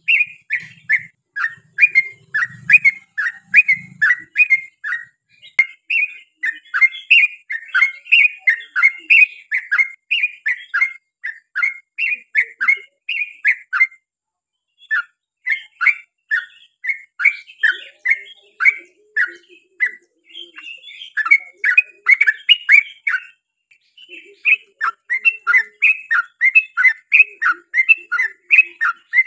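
Yellow-vented bulbul (trucukan) singing a long rapid-fire string of short chattering notes, about three or four a second, with brief pauses about 14 and 24 seconds in.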